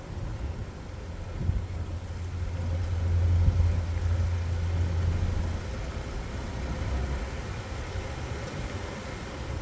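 A vehicle engine running with a low hum that swells about two seconds in, is loudest near the middle, then eases off.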